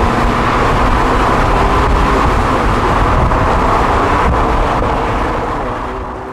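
A car driving at a steady speed: a dense, even rumble of engine and road noise that fades away near the end.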